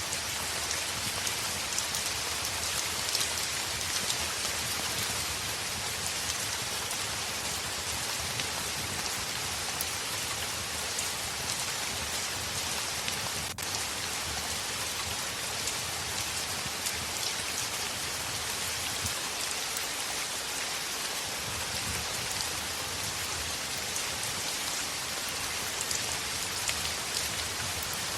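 Heavy rain pattering on a window: a steady hiss of rain with a dense patter of fine drop ticks, broken by a momentary dropout about halfway through.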